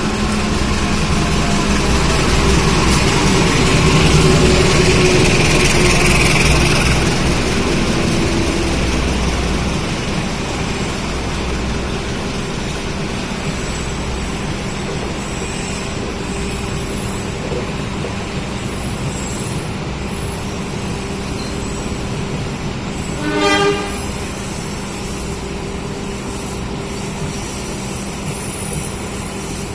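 A train rumbling through a railway station, loudest in the first several seconds and then settling to a steady engine hum, with one short horn toot about two-thirds of the way in.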